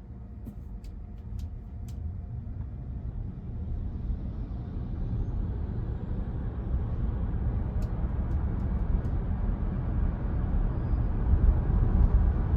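Road and tyre noise inside the cabin of a 2022 Tesla Model Y Performance, a low even rumble that grows steadily louder as the electric car gathers speed.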